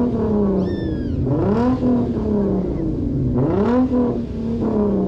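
Car engine being revved repeatedly: the pitch climbs quickly, holds briefly and drops back, about every two seconds. A short high squeal falls in pitch about a second in.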